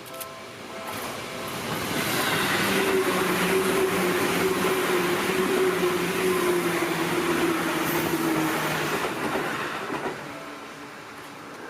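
An electric train on the Seibu Ikebukuro Line passing close by. The rail noise builds over about two seconds and stays loud for several seconds, with a steady hum that slowly falls in pitch, then fades near the end.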